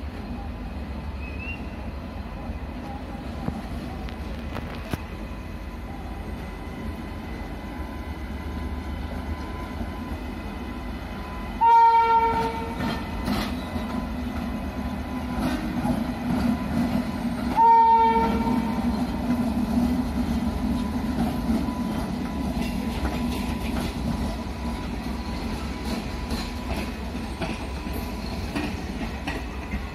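Indian Railways train running through the station with a steady low rumble, while a locomotive horn sounds two short blasts about six seconds apart, near the middle.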